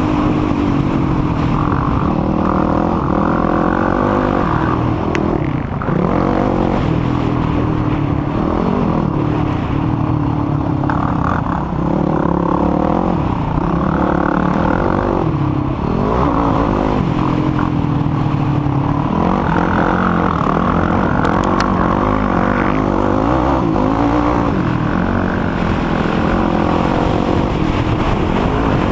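Motocross quad engine revving hard, its pitch climbing and dropping again and again as it accelerates and shifts around the track.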